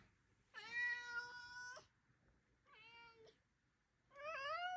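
A domestic cat meowing three times: a long meow about half a second in, a shorter, fainter one in the middle, and a meow with a wavering pitch near the end.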